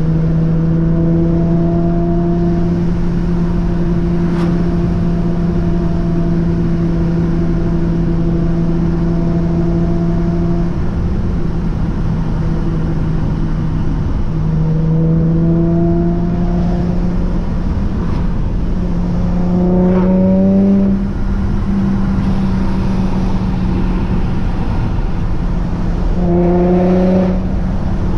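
Supercharged Infiniti G35's V6 with aftermarket headers and exhaust running under way, with road noise: a steady engine note for about ten seconds, then three pushes where the pitch climbs as the car accelerates.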